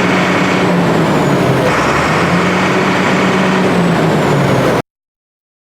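Volvo FL6 truck's D6A six-cylinder diesel engine running steadily. The sound cuts off abruptly near the end.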